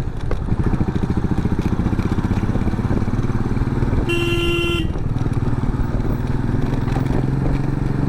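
Motorcycle engine running steadily while riding on the road, with one short horn honk about four seconds in.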